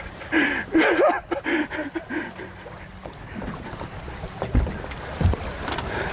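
Wind and sea water rushing past a sailing yacht under way, with two low thumps in the second half.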